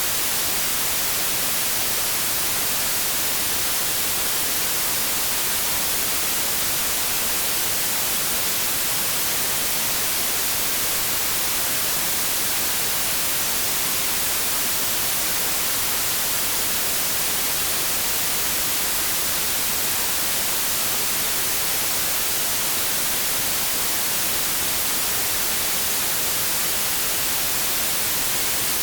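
Continuous generated white noise: a steady, even hiss, strongest in the treble, with no change in level.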